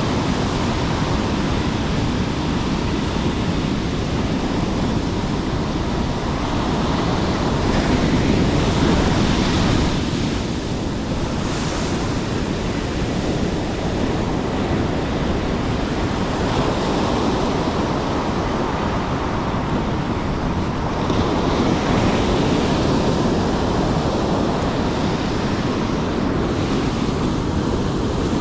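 Steady wash of surf, with wind rumbling on the microphone.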